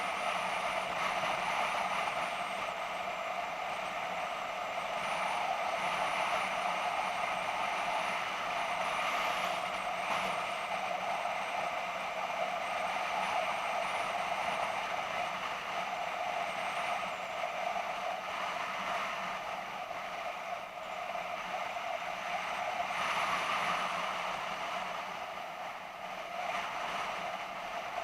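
BMW F650GS motorcycle on the move, its engine running steadily under wind and road noise, heard from a camera mounted on the bike.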